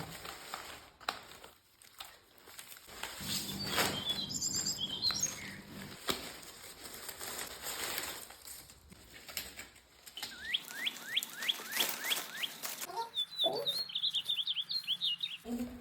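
Birds chirping in several bursts, among them a run of quick falling calls about ten seconds in, over scattered rustling and clicking handling noise.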